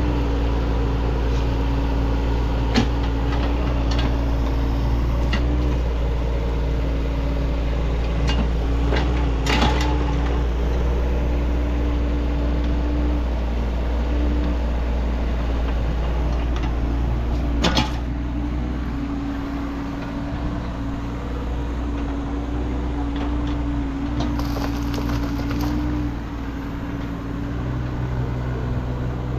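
Digger engine running steadily during trench backfilling, with a few sharp knocks of soil and rubble along the way.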